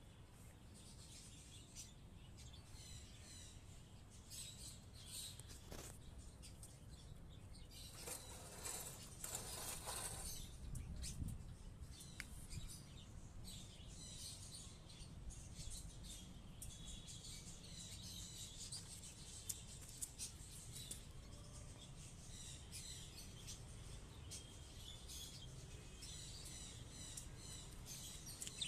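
A flock of budgerigars chirping and chattering: many short, high twittering calls throughout, with a louder patch of rustling noise from about eight to ten seconds in.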